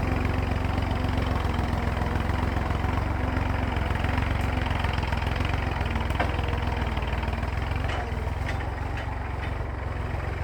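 Massey Ferguson tractor's diesel engine running steadily with a deep, even rumble, easing off slightly near the end, with a few faint clicks.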